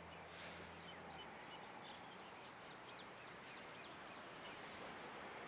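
Faint bird chirping: a quick run of short, high, falling chirps in the first half, over a steady background hiss.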